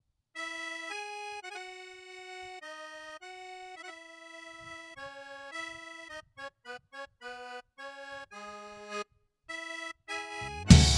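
Solo accordion playing a circus melody, held notes at first, then a run of short detached notes, a brief pause and a few more notes. Near the end a loud drum and cymbal hit brings in the full band.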